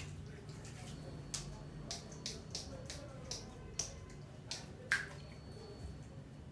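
A run of light, sharp clicks and taps, roughly two a second, over a low steady hum, the loudest one near the end.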